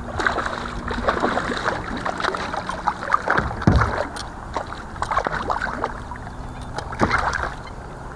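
Water splashing and knocking on a fishing kayak while a hooked bass is fought, irregular short clicks and splashes with one heavier thump a few seconds in, over a steady low hum.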